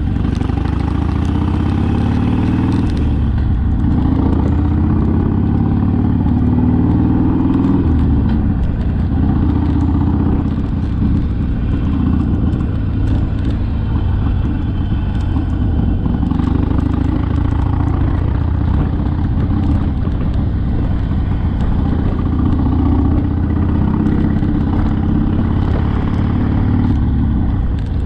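Harley-Davidson Sportster V-twin engine on the move, its note rising repeatedly as it accelerates through the gears and dropping at each change, over a heavy low rumble.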